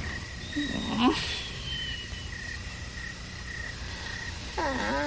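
Night-time woods ambience from a TV soundtrack: steady cricket chirps at about two to three a second. A short rising vocal sound comes about a second in, and a wavering, whimpering voice starts near the end.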